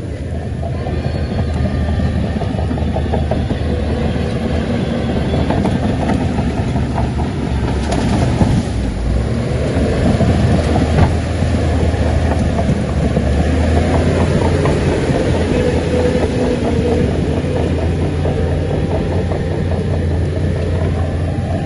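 Shantui crawler bulldozer's diesel engine running steadily, with a continuous clatter of its steel tracks and a few louder knocks about halfway through.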